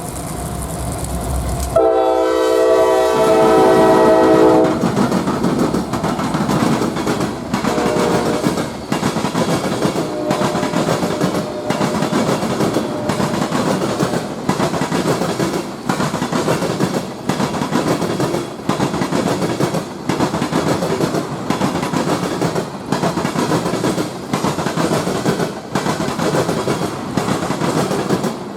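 Locomotive air horn sounding one chord of several notes for about three seconds, then a train rolling past with the steady rumble of its wheels, broken by a regular clatter about once a second.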